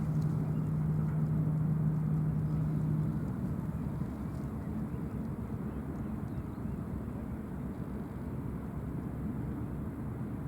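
Low, steady rumble of ship engines and harbour traffic at a ferry port. A single steady low tone sounds over it and stops about three seconds in.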